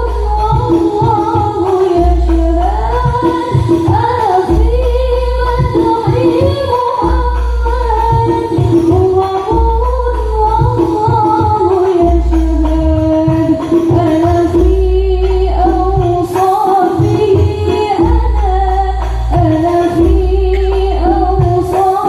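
A woman singing sholawat, a long melodic line with wavering ornamented notes, over hadroh frame drums beating a steady rhythm of deep strokes.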